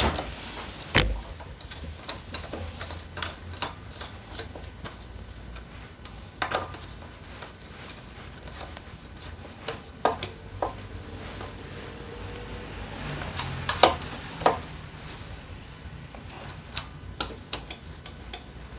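Metal tools and engine parts clinking and knocking now and then, with a few louder knocks about a second in and again around the middle.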